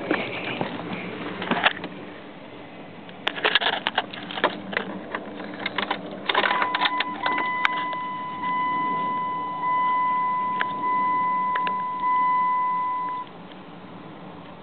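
Keys rattling and a few sharp clicks, then a steady electronic chime, the Plymouth Voyager's dashboard warning chime, sounding in four pulses about a second apart before cutting off suddenly.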